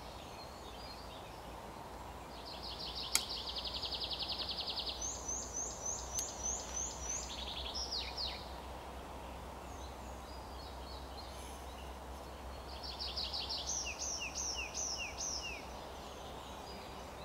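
A songbird singing two phrases, each a fast high trill followed by a run of short falling notes, about two seconds in and again about thirteen seconds in. A single sharp click about three seconds in, over a steady low background rumble.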